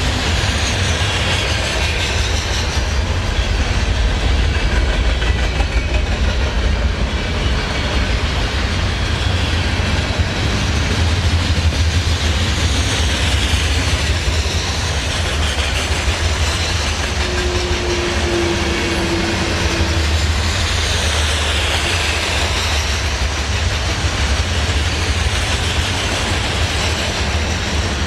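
Train cars rolling past on the rails: a steady, loud rumble of wheels on track with a rushing hiss that swells and fades as cars go by. About two-thirds of the way in, a brief steady tone lasting a few seconds rises above the rumble.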